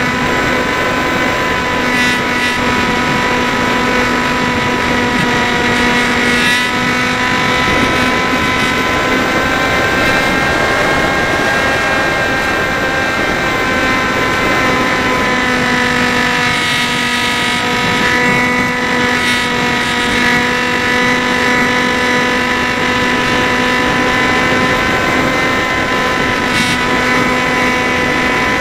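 Electric motor and propeller of a Dynam Hawk Sky RC plane in flight, giving a steady whine whose pitch drifts slightly up and down.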